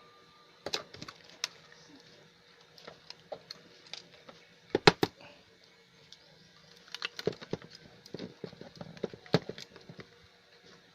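Scattered small clicks and taps of plastic and metal parts being handled during work on an opened mini Bluetooth speaker, with a louder pair of knocks about five seconds in.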